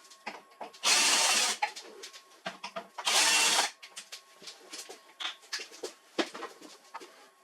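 Power screwdriver running in two short bursts, about a second in and again about three seconds in, with small clicks and knocks of handled parts and screws between.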